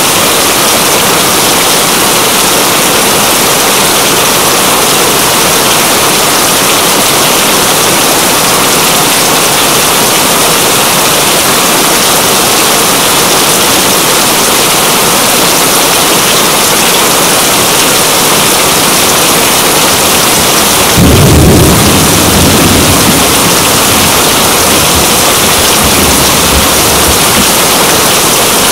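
Steady, heavy rain hiss, with a low rumble of thunder breaking in about two-thirds of the way through and fading away over several seconds.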